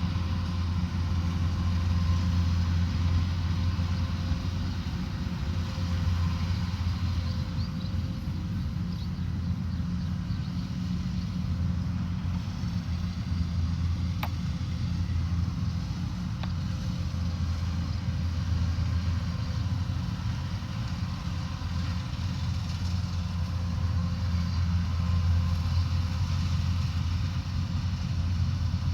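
Rice combine harvester's engine running steadily, a deep continuous drone with a haze of machinery noise over it, and a single faint click about halfway through.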